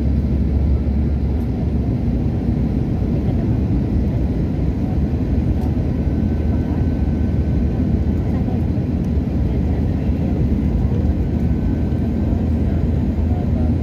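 Steady low rumble of an airliner's engines and rushing air, heard from inside the passenger cabin during the approach to landing.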